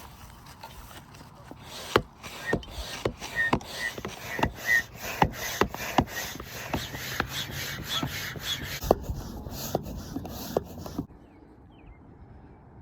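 Hand pump inflating an inflatable paddle board: stroke after stroke, about two a second, each a sharp click with a rush of air, stopping suddenly about eleven seconds in.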